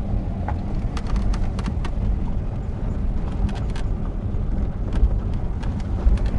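Vehicle driving along a rough track, heard from on board: a steady low rumble with scattered, irregular clicks and rattles.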